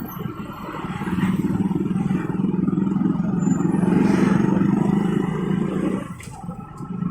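Motorcycle engine running under throttle with a steady drone, easing off about six seconds in.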